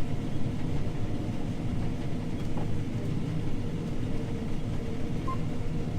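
John Deere T670i combine harvester running steadily while cutting wheat: a constant low rumble with a faint steady hum above it.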